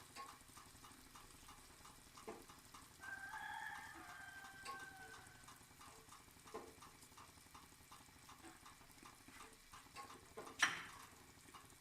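Chicken curry frying faintly in the pan, a soft sizzle with many small crackles. About three seconds in a rooster crows once in the background for about two seconds, and near the end there is a single sharp knock.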